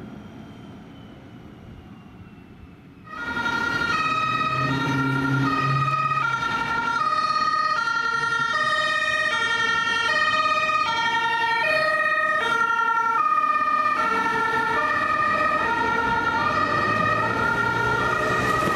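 Two-tone emergency-vehicle siren switching back and forth between a high and a low note, starting suddenly about three seconds in over faint traffic noise. Toward the end a second two-tone siren overlaps it, out of step with the first.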